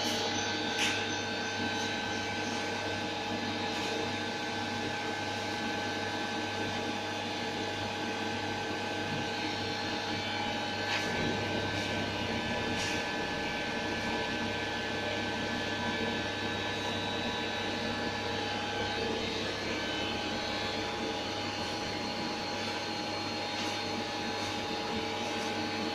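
Steady machine hum with several held tones over a constant whir, unchanging throughout.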